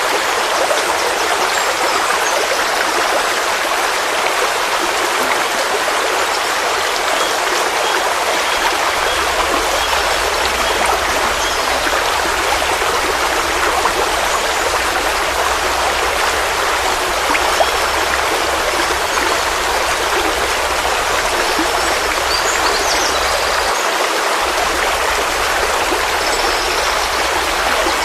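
Forest stream flowing, a steady, even rush of running water.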